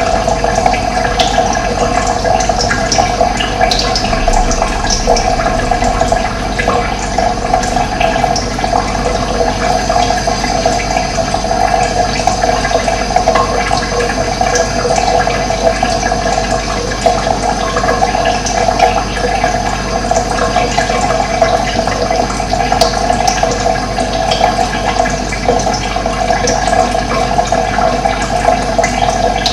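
Running water with a steady, even rush and no pauses, with a few short, faint high chirps of birds here and there.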